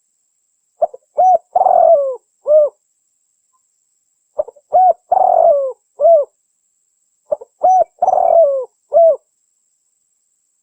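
Spotted dove (tekukur) cooing: a phrase of several rounded coo notes, sung three times with a pause of about a second between phrases. It is a lure call used to draw in wild spotted doves.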